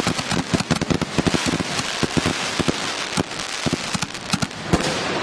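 Fused run of 60-gram firework mortar shells going off in rapid succession: many irregular bangs a second over continuous crackling.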